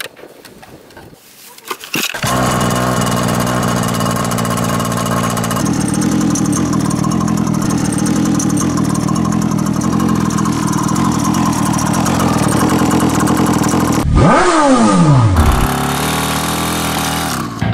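A motorbike engine sound starts suddenly about two seconds in and runs steadily. About 14 s in there is a brief swooping drop in pitch, after which the running sound carries on.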